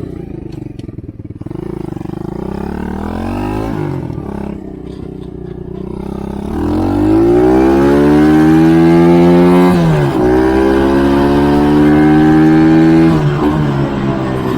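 Stock Chinese pit bike four-stroke engine revving. It runs lower and unevenly at first, then climbs steeply about six and a half seconds in to a high, steady pitch. That pitch is held for several seconds, at the engine's test speed of over 10,000 rpm, with a brief dip near ten seconds, before it backs off and the sound cuts off suddenly.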